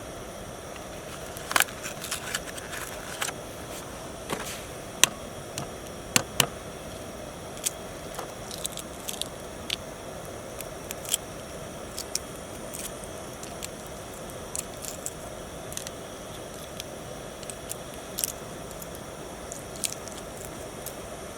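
Wood campfire crackling: irregular sharp pops and snaps, a few louder than the rest, over a steady hiss.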